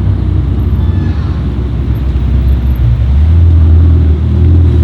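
Ferrari engine running at low speed as the car rolls past, a deep steady note that grows louder about three seconds in.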